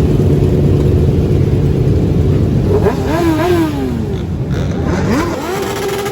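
Motorcycle engines over a steady low rumble; about three seconds in the engine revs, its pitch rising and falling several times, and near the end it climbs again, holds and falls away.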